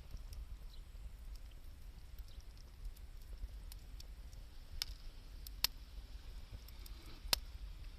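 Wood fire crackling, with sparse sharp pops, the loudest three coming in the second half, over a low steady rumble.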